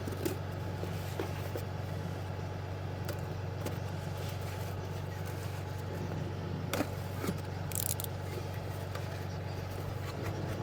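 A steady engine hum from an idling motor, with a few short metallic clicks and clinks from parts and tools being handled, the clearest about seven seconds in.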